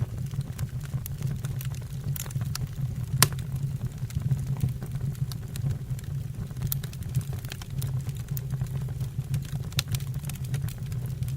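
Wood fire in a fireplace crackling: scattered sharp pops and snaps over a steady low rumble of the burning logs, with one louder pop about three seconds in.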